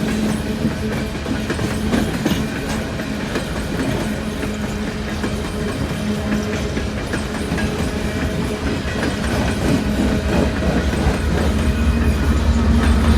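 Freight train of empty coal cars rolling past, the wheels clicking over the rail joints, with a steady low hum that grows louder near the end.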